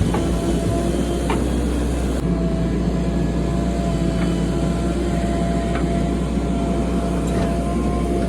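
Heavy diesel engine of earthmoving machinery running steadily, with a thin steady whine over it and a few light clicks.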